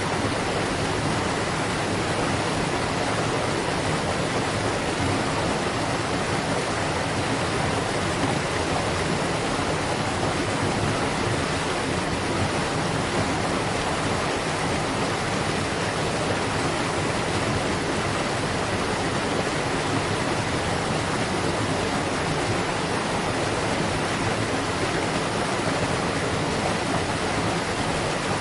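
Waterfall: falling water rushing and splashing in a steady, unbroken roar of noise.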